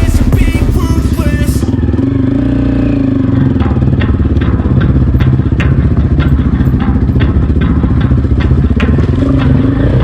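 Off-road motorcycle engine running at low speed, with many sharp clicks and knocks as the bike rides over rough ground. Background music cuts off about two seconds in.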